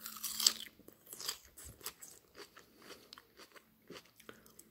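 A person chewing a mouthful of crunchy lettuce salad with sardine: a louder crunch in the first half second, then irregular soft crunches and wet clicks of chewing.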